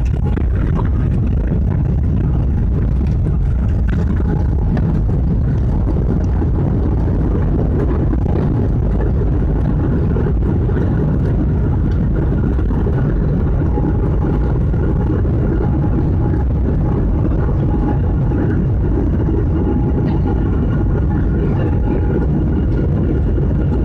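Steady, loud low rumble of engine noise, unchanging in level throughout, with a few faint steady tones above it.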